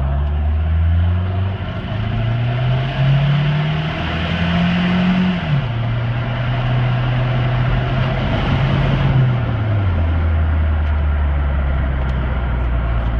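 Toyota 22R-TE turbocharged four-cylinder pickup engine pulling under acceleration. Its pitch climbs steadily for about five seconds, drops sharply, holds steady, then falls again near ten seconds in.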